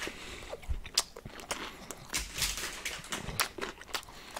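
Close-up eating sounds: a snack chewed near the microphone, with irregular crunches and wet mouth clicks.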